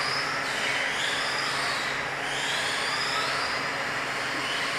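Several radio-controlled Euro trucks running on a track, their electric motors whining. The pitch rises and falls repeatedly as they accelerate down the straights and slow for the corners, over a steady hiss of tyres.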